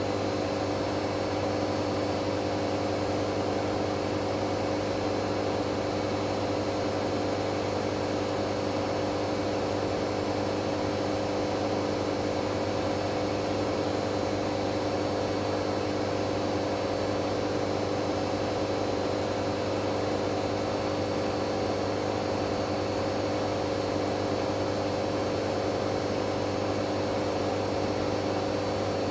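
Hoover Dynamic Next washing machine on a spin-only cycle, the drum spinning steadily with a constant motor hum and a thin high whine.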